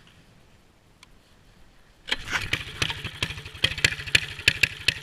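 Mini bike's Predator 212cc single-cylinder four-stroke engine catching about two seconds in and running at a rough, uneven idle. It is still cold and not fully warmed up.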